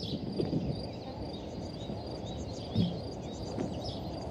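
Outdoor countryside ambience: insects and small birds chirping over a low, steady rumble, with one soft thump near the three-second mark.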